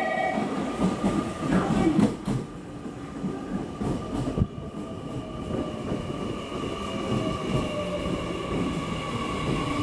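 Electric train running at the station: a continuous low rumble of wheels on rail with steady whining tones above it, and a faint whine that slowly falls in pitch through the middle.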